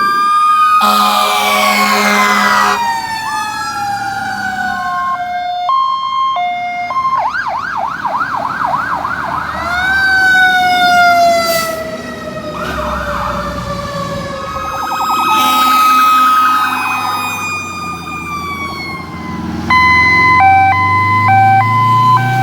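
Fire apparatus electronic sirens sounding on an emergency response: slow rising and falling wails, a fast yelp in the middle, and a stepped alternating tone near the end. Blasts of air horn come about a second in and again past the middle.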